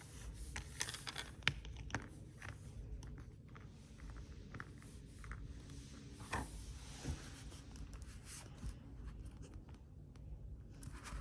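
Hands handling a small plastic action figure and its packaging: scattered rustling, scraping and light plastic clicks, the sharpest click about a second and a half in.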